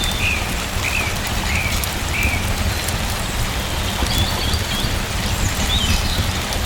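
Steady rain with a low rumble beneath it, and a bird chirping over it: four short chirps in the first couple of seconds, then a few higher chirps later on.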